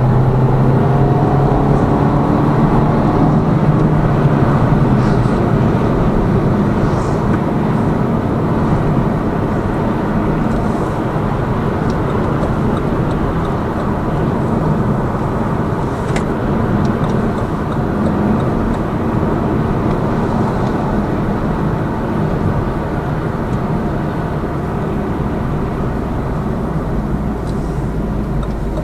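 Lada Vesta Cross's 1.8-litre engine and tyre noise heard inside the cabin while driving in traffic. The engine note rises in pitch over the first few seconds as the car accelerates through its AMT robotised gearbox, then settles into a steady drone of engine and road, with a short click about midway.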